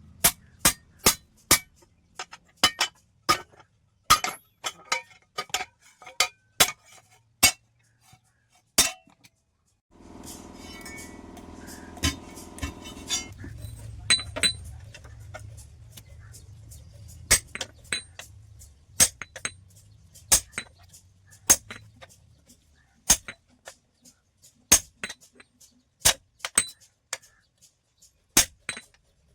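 Hammer blows on steel: sharp, ringing metallic clinks at an uneven pace of about one or two a second. About ten seconds in, a motor hums for a few seconds and a low rumble follows under the strikes.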